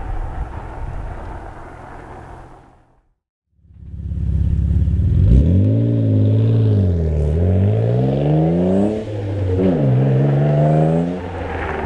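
Mitsubishi 3000GT VR4's twin-turbo V6 running through a Tanabe Medalion Touring cat-back exhaust. It runs steadily, then drops out for about a second. It comes back at idle and is revved three times, each rev rising and then falling back.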